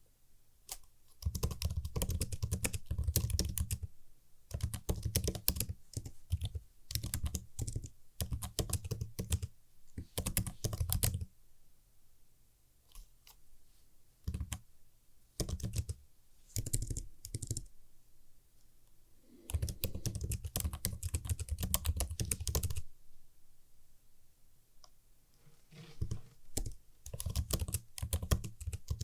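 Typing on a computer keyboard: runs of fast, crisp keystrokes in about five bursts of a few seconds each, with short pauses between them.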